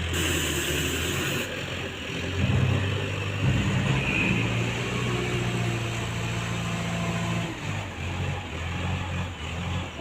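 Heavy-vehicle engine running, its revs rising and falling several times.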